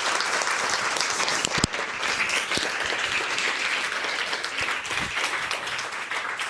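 Audience applauding, a steady patter of many hands clapping, with one sharper knock about a second and a half in; the applause cuts off suddenly at the end.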